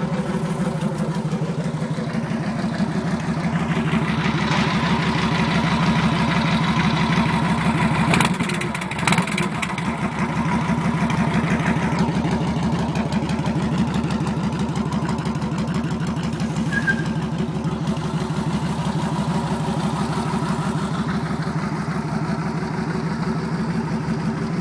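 Yamaha Road Star Warrior's air-cooled V-twin running through a custom exhaust, a steady pulsing idle. It grows louder for a stretch in the middle, with a brief break about nine seconds in, then settles back.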